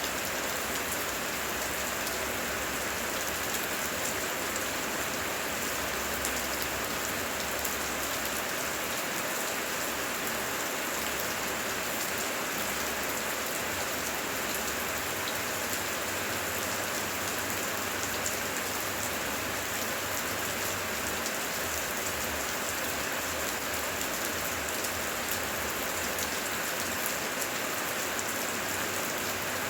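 Heavy rain falling steadily: an even, unbroken hiss of countless drops striking the ground and foliage.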